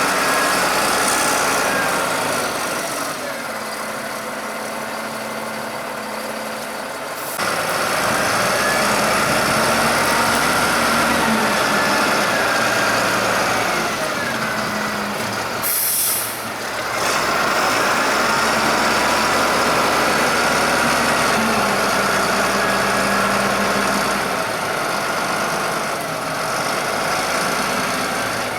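Valtra T160 tractor engine running steadily, louder from about seven seconds in, with a brief hiss about 16 seconds in.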